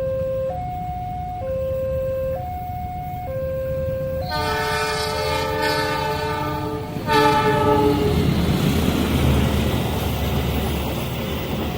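Two-tone level-crossing warning alarm alternating about once a second. About four seconds in, a train's horn sounds a long blast and then a shorter second one, and the rumble of the train passing over the crossing follows.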